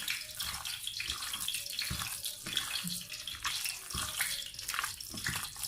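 Oil and rendered mutton-fat ghee heating in a pan, hissing with irregular crackles, with a few soft knocks.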